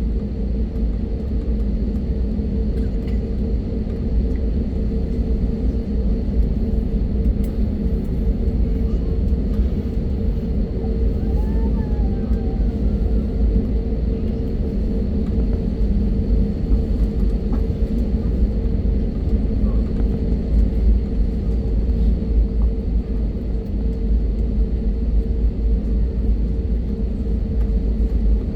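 Steady low rumble of an airliner's jet engines heard inside the passenger cabin, with a steady whine riding over it and no change in level.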